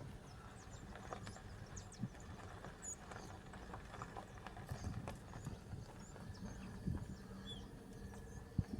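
Faint wind rumbling across the microphone, with scattered irregular knocks and small high chirps of distant birds.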